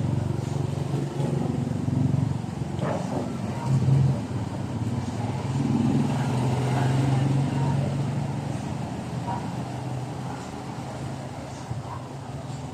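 An engine or motor running steadily, its low hum swelling a little about four seconds in and again midway, then easing off toward the end.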